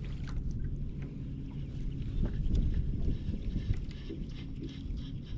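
Low rumble of wind and water around a fishing kayak, with scattered small knocks and clicks from gear being handled in the boat.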